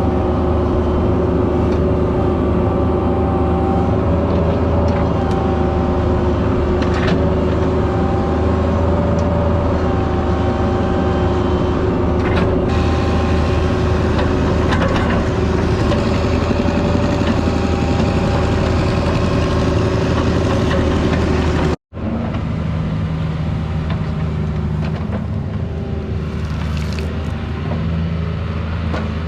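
Mini excavator's diesel engine running steadily under work, with a constant whine over the engine hum. About two-thirds of the way through, the sound drops out for an instant. The machine then carries on a little quieter, with a lower hum that comes and goes.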